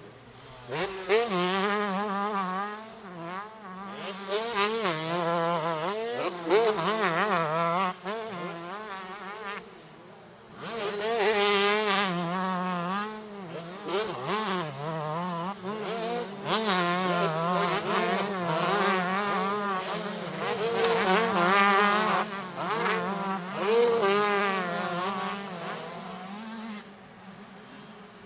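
125cc two-stroke motocross bikes racing, their engines revving hard with the pitch swooping rapidly up and down as the riders work the throttle and gears. Brief lulls come around the middle and near the end as the bikes move off.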